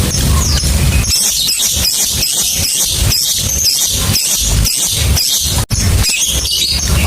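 Lovebirds calling in rapid shrill chirps and squawks, a fast chattering series of sharp notes, over a steady low rumble. The sound drops out for an instant a little before six seconds.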